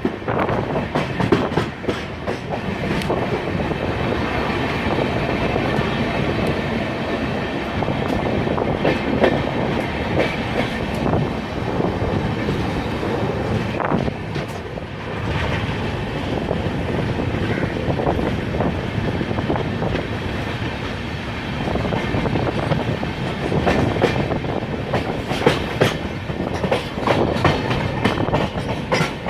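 Express passenger train running through a station at speed without stopping: a continuous loud rumble of passing coaches, with the wheels clattering steadily over rail joints.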